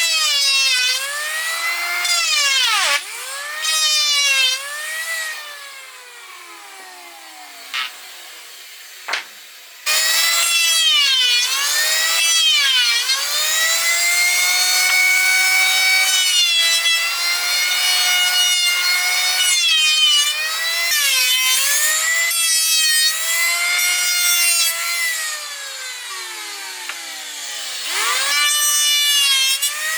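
Power saw cutting wood: its motor whine sags in pitch as it bites into the wood and climbs again as it frees, over and over. It eases off to a quieter run for a few seconds about a quarter of the way in.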